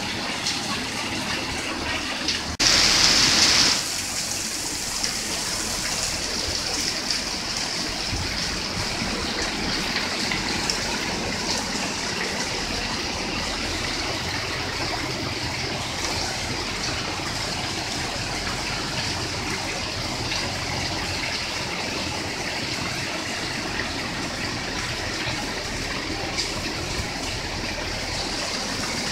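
Steady rushing noise of heavy rain and running floodwater. About two and a half seconds in there is a sudden, louder hiss that lasts about a second.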